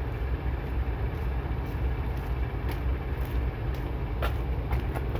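Semi-truck's diesel engine running steadily at low revs, a continuous low rumble with a few faint clicks.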